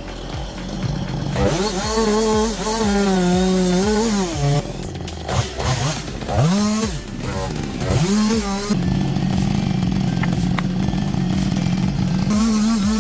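A chainsaw running at high revs, with the throttle dropped and opened again several times, the engine note falling and rising. The sound breaks off abruptly and changes a few times.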